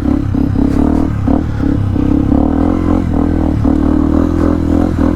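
Yamaha WR155's single-cylinder engine running as the bike is ridden slowly, the throttle opened and closed in short uneven bursts.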